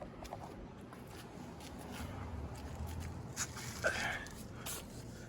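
Quiet handling and movement noises: soft rustles and a few light knocks over a low steady hum, with one brief brighter sound about four seconds in.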